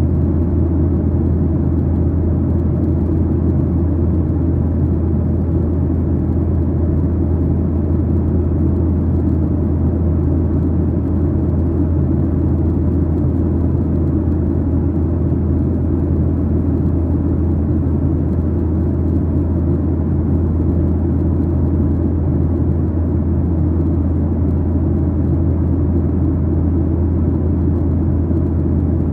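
Steady cabin noise inside a Boeing 737-900ER: the low, even drone of its CFM56-7B turbofan engines mixed with airflow noise, with a strong low hum underneath.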